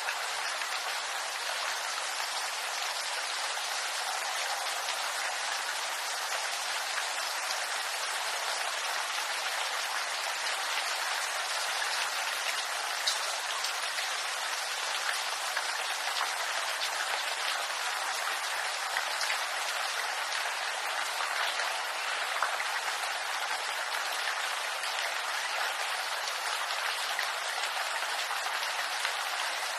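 Steady rain falling on bamboo leaves, an even patter with scattered sharper drips.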